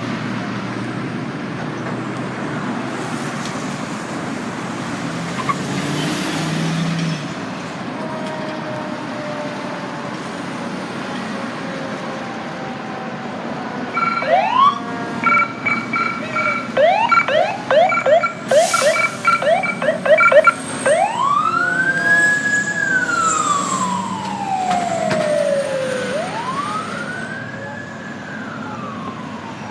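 Fire engine's electronic siren being worked through its modes. After a stretch of road noise, a fast yelp starts about halfway through, over an alternating two-tone hi-lo. It then changes to two slow wails, each rising and falling.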